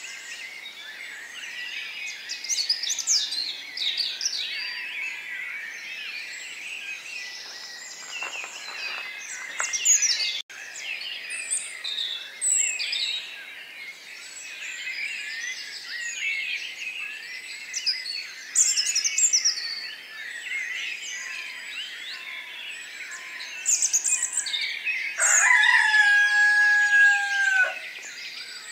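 A dense chorus of many small birds chirping and twittering, which briefly breaks off about ten seconds in. Near the end comes one long held call of about two and a half seconds that rises at its onset, holds steady and drops away.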